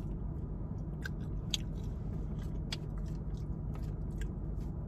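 Close-up chewing of crispy fried vegan 'chicken wing', with scattered short crunchy clicks, over a steady low hum of the car cabin.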